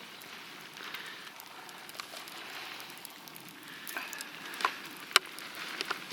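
Campfire crackling under falling wet snow: a steady hiss with scattered sharp crackles, one louder snap about five seconds in.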